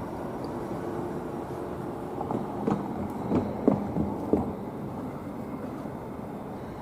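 Keisei 3050 series electric train running, a steady rumble, with a quick run of about five wheel knocks over rail joints a couple of seconds in.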